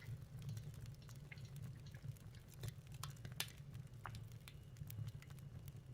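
Recorded fireplace sound of wood crackling, played back quietly: scattered pops and snaps over a steady low rumble.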